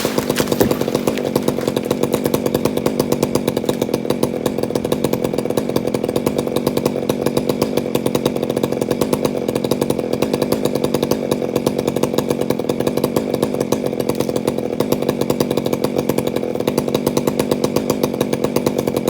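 Two-stroke chainsaw engine running at a steady speed, its pitch holding even throughout.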